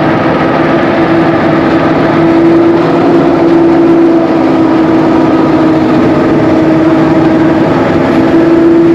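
Engine-driven rice thresher running steadily at a constant, loud pitch.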